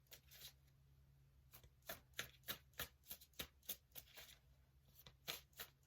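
Tarot deck being shuffled by hand: faint, quick card slaps at roughly three or four a second, with a pause of about a second near the start.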